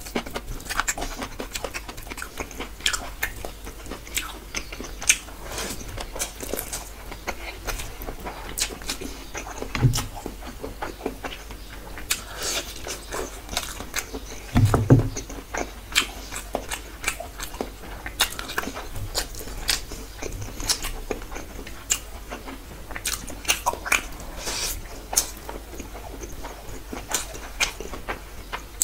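Close-miked chewing of rice and curry eaten by hand: many short clicks and mouth noises throughout, with a dull low thump about ten seconds in and another about fifteen seconds in.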